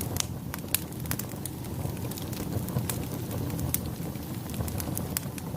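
Big bonfire burning: frequent sharp crackles and pops scattered over a steady low rumble.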